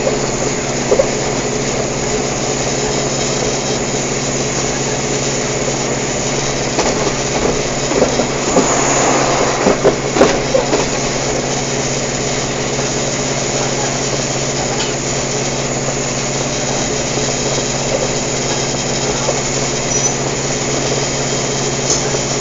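Cabin noise of a Sprinter diesel multiple-unit train under way: a steady engine drone with the rumble of wheels on the track. A louder patch of clattering comes between about eight and eleven seconds in.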